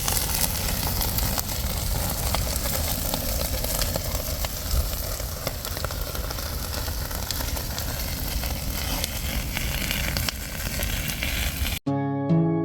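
A fire crackling and hissing over a steady low rumble. Near the end it cuts off suddenly and plucked, harp-like music begins.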